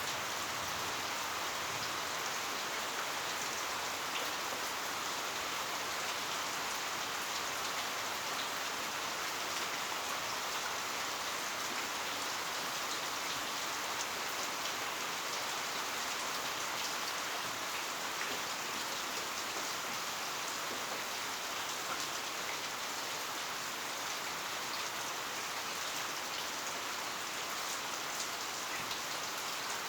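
Heavy rain falling steadily: a dense, even hiss of drops striking the ground and nearby surfaces, with faint scattered drop ticks.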